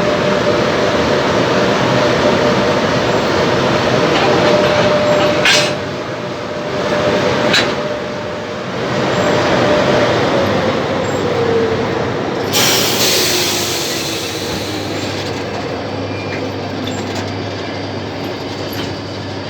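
Passenger train rolling by with a steady rumble of wheels on the rails, broken by a few sharp clacks. A steady whine drops in pitch about ten seconds in, and the noise then eases off.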